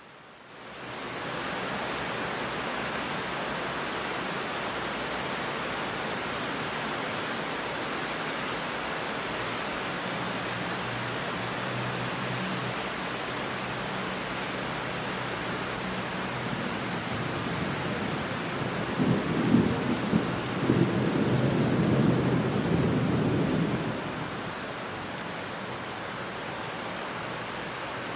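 Heavy rain falling steadily, rising in over the first second or two. From about ten seconds in a low roll of thunder builds, loudest with several cracks around twenty seconds in, then dies away under the rain.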